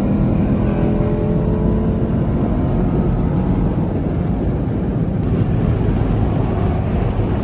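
Car driving: steady engine and road noise, with the engine note easing off and falling in pitch in the first second.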